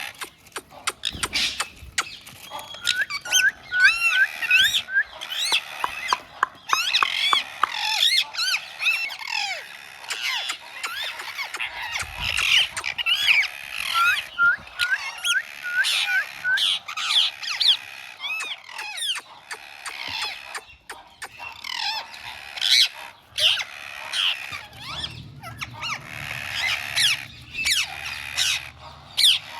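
Baby green parrots chirping and squawking: many short calls that glide in pitch, quick runs of repeated notes, and harsh squawks. A low hum comes in near the end.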